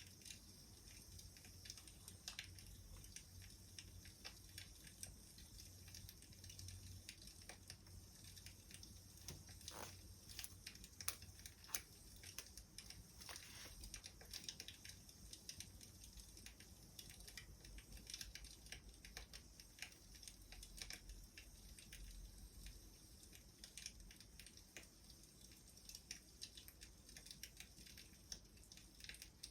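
Wood fire crackling softly: irregular small pops and snaps over a faint hiss, with a few sharper snaps about ten to twelve seconds in.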